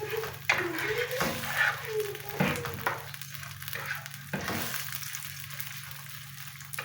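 Food sizzling in a frying pan while being stirred, with a few knocks or scrapes of the utensil against the pan.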